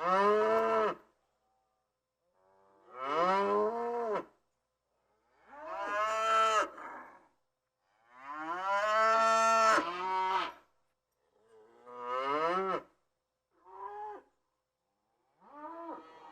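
A cow mooing again and again: about seven separate moos of varying length, with silent gaps between them. The longest moo lasts about two and a half seconds, near the middle, and the last few are short.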